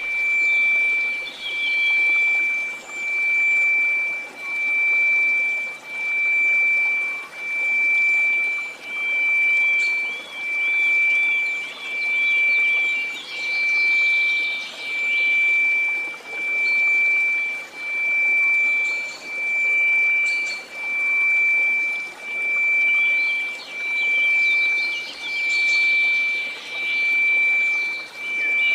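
A steady 2334 Hz sine tone laid over a hiss of white noise, the tone swelling and fading about once every second and a half.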